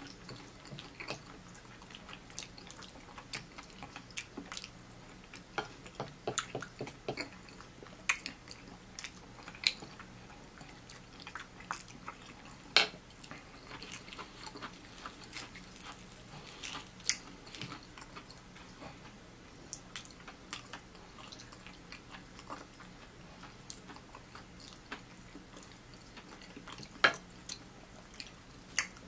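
Close-up mouth sounds of a person eating cheesy pasta and fried chicken: irregular wet chewing clicks and lip smacks, with a couple of sharper clicks along the way.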